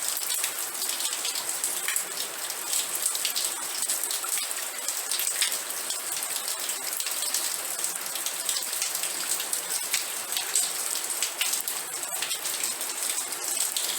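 Steady rain falling, dense patter of drops on a surface with a constant hiss.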